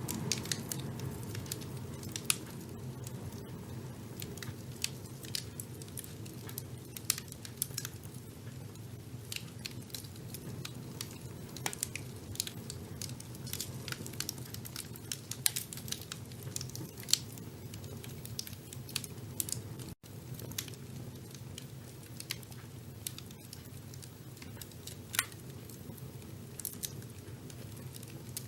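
Wood fire burning in a fireplace: a steady low rumble of flames with sharp, irregular crackles and pops. The sound drops out for an instant about twenty seconds in.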